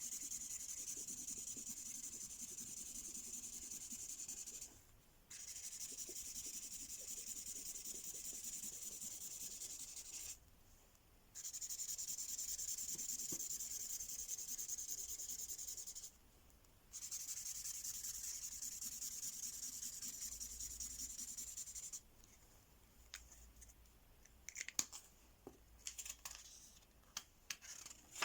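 Felt-tip reveal-ink pen colouring on paper in rapid back-and-forth strokes, a steady scratchy hiss in four long stretches broken by brief pauses. Near the end the colouring stops and only light taps and rustles remain.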